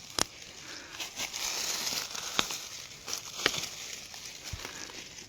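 Leafy undergrowth rustling and crinkling as wild greens are handled, with a few sharp snaps as stems are pulled off by hand.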